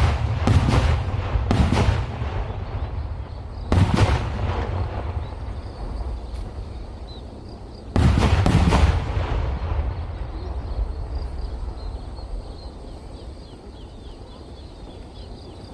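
Large firecrackers exploding: three heavy blasts close together in the first two seconds, another at about four seconds and a last one at about eight seconds, each rolling away in a long echoing rumble.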